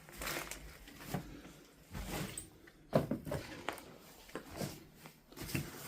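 A person moving about among debris in a small room: scattered scuffs, rustles and light knocks, with one sharper knock about three seconds in.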